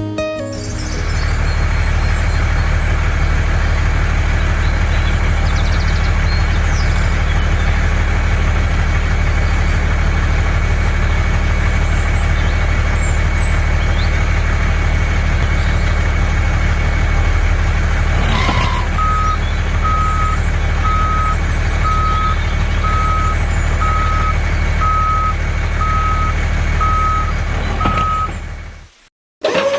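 A vehicle engine running steadily with a deep, even hum. Past the halfway point, a reversing alarm starts beeping about once a second, about ten beeps, and then everything cuts off suddenly just before the end.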